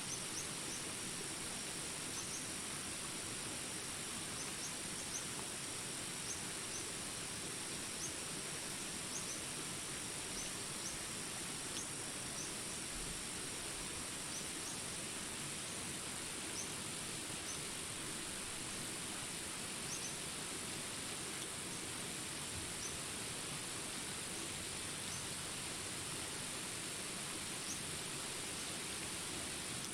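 Steady rain falling, with a constant high-pitched insect drone and short high chirps repeating every second or so, fewer toward the end.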